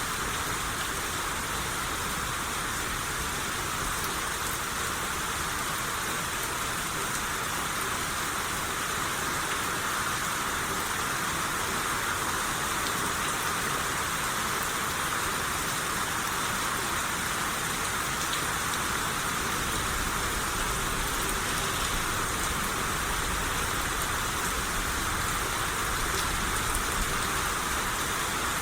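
Steady rain shower falling and pattering on surfaces, an even hiss with a dense scatter of drop ticks.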